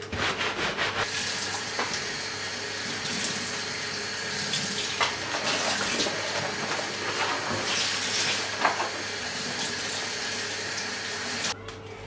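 Water running steadily from a tap into a sink, with a few light knocks, and then shut off near the end.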